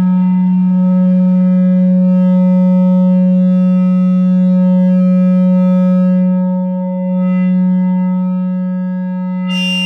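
No-input mixer feedback drone: a 2-channel mixer looped back on itself through an effect pedal, holding one steady low hum with a stack of overtones above it. A burst of high hiss comes in just before the end.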